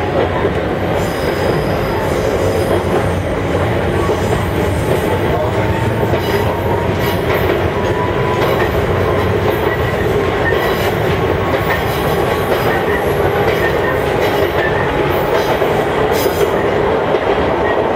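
Ichibata Electric Railway electric train running steadily: a continuous rumble with a faint whine and scattered clicks of the wheels over the rails.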